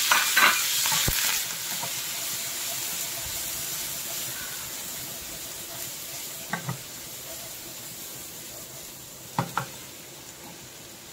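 Raw prawns, just added, sizzling in butter and oil in a hot frying pan as they are stirred, the sizzle gradually dying down. A metal spoon knocks against the pan a few times, with two quick double knocks later on.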